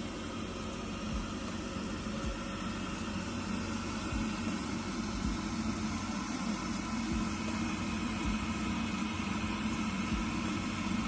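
Vesta VH-199 hybrid tankless gas water heater running at high fire with water flowing: a steady hum with several steady tones from its burner and fan. It grows slightly louder as the flow is turned up and the burner modulates up toward full capacity.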